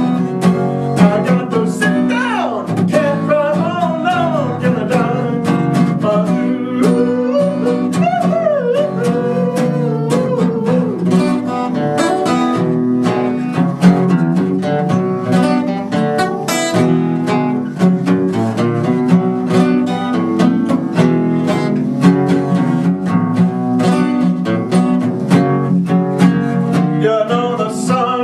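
Acoustic guitar strumming chords, with a voice singing a long, wavering, gliding line over it in roughly the first ten seconds, then the guitar playing on alone.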